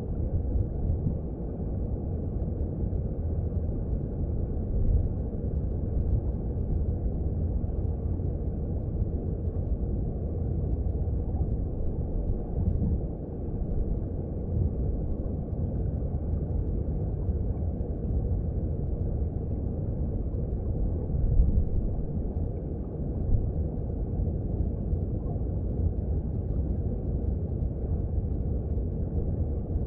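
Underwater sound of a mountain stream: a steady, muffled low rumble of flowing water, with a couple of brief swells.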